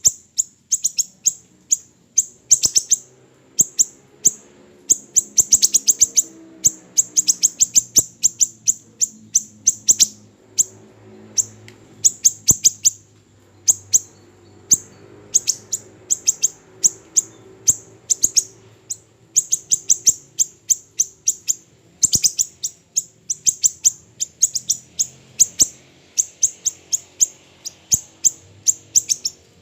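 Siri-siri kecil, a small songbird, calling in rapid, irregular bursts of very short, sharp, high-pitched ticks and chips, the sharp 'tembakan' call used as a tutor recording for cage birds.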